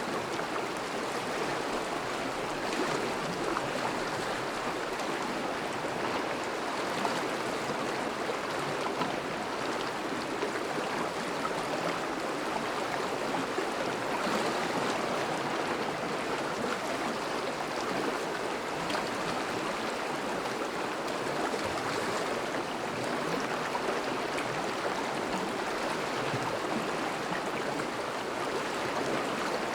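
Thawing river flowing steadily over and around breaking ice: an even rushing and babbling of moving water.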